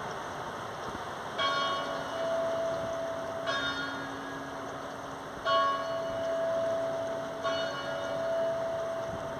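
A church bell tolling: four strikes about two seconds apart, each ringing on with a long low hum, over a steady background hiss.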